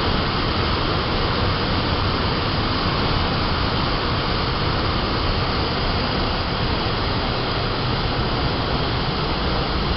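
Waterfall, a steady loud rush of falling water with no change.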